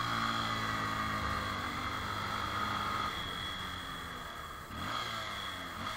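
Motorcycle engine under way, pulling at steady revs. Its pitch sags, then climbs again about five seconds in. Wind noise runs over the microphone throughout.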